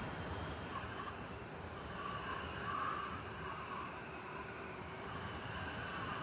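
City snowstorm ambience: steady blizzard wind noise over a low rumble of distant city traffic, swelling briefly about two to three seconds in.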